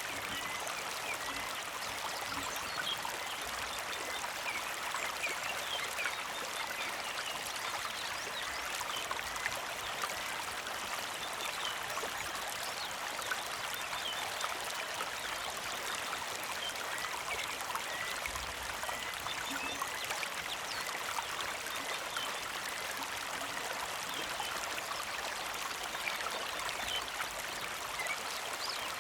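Small creek flowing steadily over rocks, a constant trickling and babbling of water, with scattered faint bird chirps over it.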